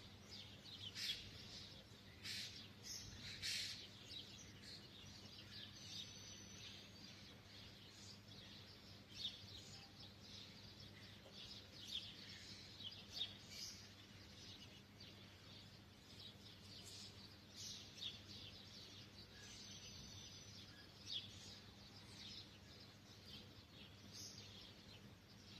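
Timbrado canaries giving short, faint chirps and calls every second or two, with a low steady electrical hum underneath.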